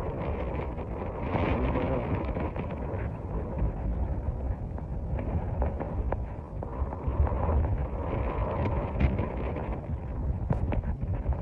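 Wind blowing across the microphone in a snowstorm, an uneven low buffeting, with a few faint clicks.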